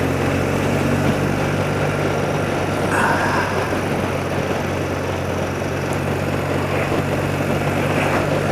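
Thirty-year-old BMW motorcycle engine running at a steady road speed, under a steady haze of wind and road noise.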